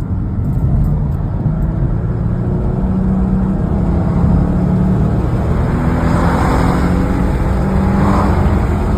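2011 Ford Mustang's 3.7-litre Cyclone V6 accelerating hard at wide-open throttle, its engine note rising steadily in pitch.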